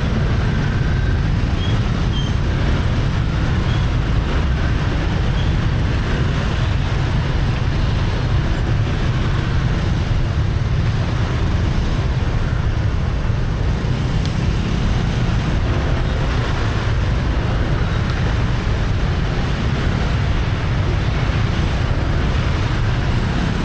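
Steady street traffic noise heard from a moving motorbike: an unbroken low rumble of engines and road noise with no distinct events.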